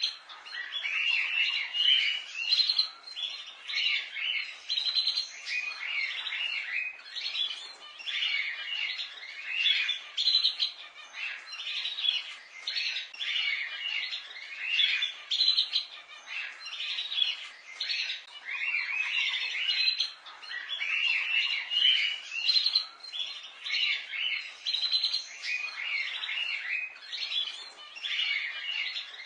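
Many birds chirping continuously, with short, quick, overlapping high chirps.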